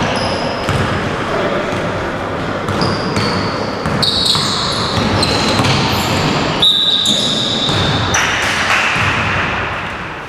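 Basketball game in an echoing gym: sneakers squeak sharply on the court again and again and the ball bounces, over a background of players' voices.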